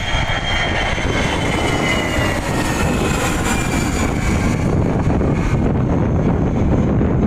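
Airplane engines running loud as the aircraft passes, a steady rushing noise with a high whine that slowly falls in pitch.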